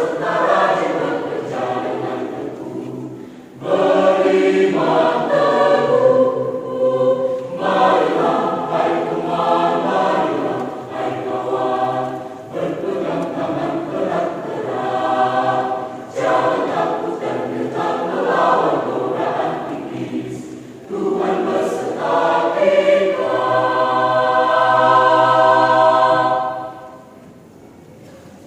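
Mixed church choir singing in parts, phrase after phrase with short breaks between. It ends on a long held chord that cuts off shortly before the end.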